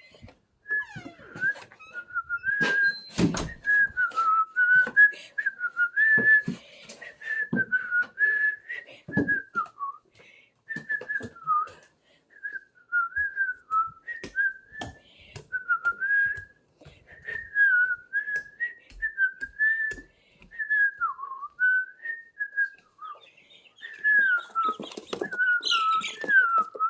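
A person whistling a wandering, unsteady tune, a single line of notes that slides up and down with short breaks. Scattered clicks and knocks of handling sound in between.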